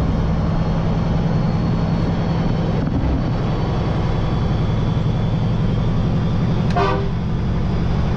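Dump truck's diesel engine running steadily on the road, with one short horn toot near the end.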